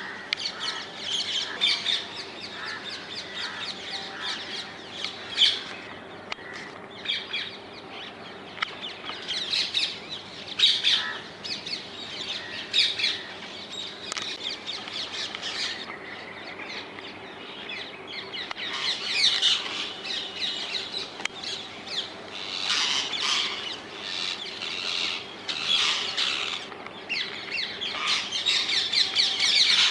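Wild rose-ringed (Indian ringneck) parakeets calling: repeated high-pitched squawking calls that come in bunches, with the busiest, loudest stretches in the second half.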